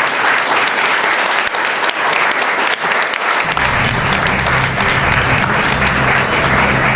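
Audience applauding steadily. About halfway through, steady low music comes in underneath.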